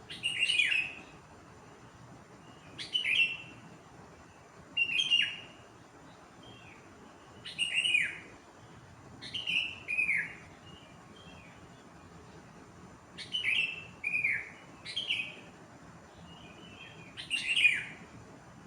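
A bird calling repeatedly before dawn: about ten loud, short, downward-slurred calls every one to three seconds, with fainter chirps in between.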